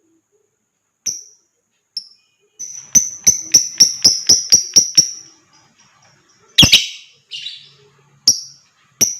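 Lovebird calling: a few sharp, high chirps, then a quick run of about nine chirps at roughly four or five a second. After that come a harsher, louder screech and a few more single chirps.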